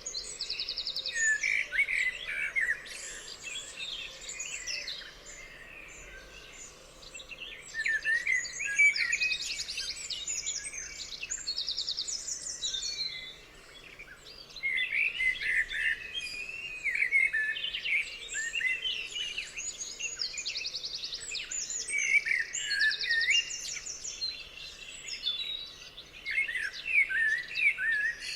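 Songbirds singing: bouts of quick chirping notes and fast, high trills, with short lulls between bouts.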